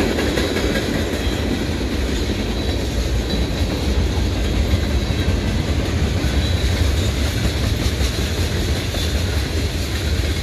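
Norfolk Southern manifest freight train's tank cars and hoppers rolling past close by: a steady rumble and clatter of steel wheels on the rails.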